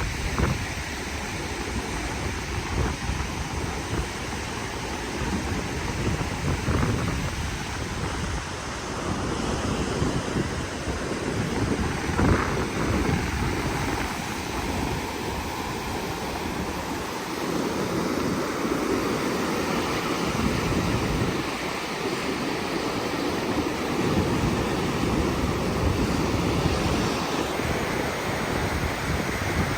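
Wind buffeting the microphone over the wash of sea water, rising and falling in gusts.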